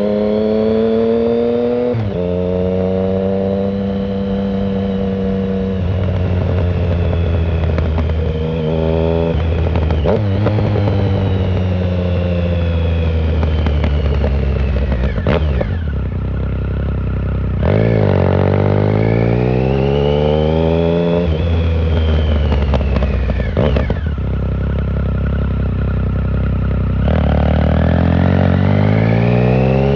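2009 Triumph Speed Triple 1050's three-cylinder engine through a shorty Competition Werkes exhaust with no silencer, heard from the rider's pocket. The engine note climbs under throttle, steps down at gear changes and drops away when the throttle is rolled off, over and over.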